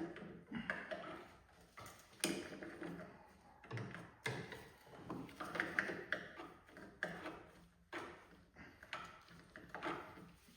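Irregular metallic clicks and knocks, about one or two a second, of Knipex pliers gripping and working loose the square oil drain plug on a Briggs and Stratton mower engine.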